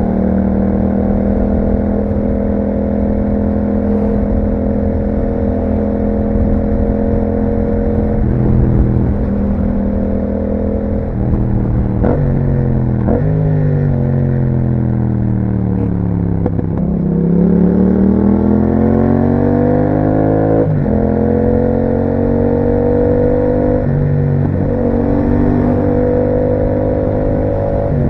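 2021 Yamaha MT-07's parallel-twin engine through an Akrapovič exhaust while riding. It holds a steady note with several quick pitch steps at gear changes, winds down as the bike slows about halfway through, then climbs again as it accelerates.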